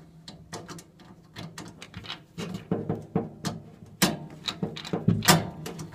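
Small screwdriver clicking and scraping against the furnace's metal parts while trying to unscrew the flame sensor, in irregular clicks and knocks, loudest about four and five seconds in.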